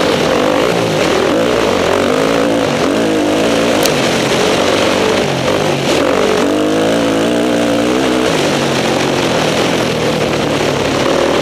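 Motocross bike engine heard from an onboard camera at race pace, its pitch rising and falling again and again as the rider works the throttle and gears through the track, over a steady rush of noise. Two short clicks come about four and six seconds in.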